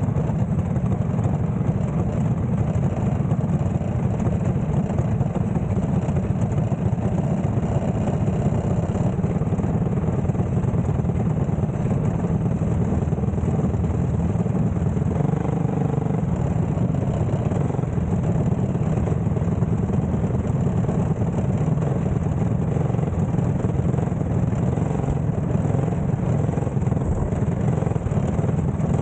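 Dirt-track racing car's engine idling steadily, with a loud low rumble picked up close by the onboard camera. About halfway through, another engine briefly blips higher and falls back.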